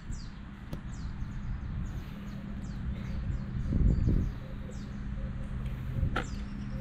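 Birds chirping: many short, quick downward-sweeping chirps, repeated throughout, over a low steady hum.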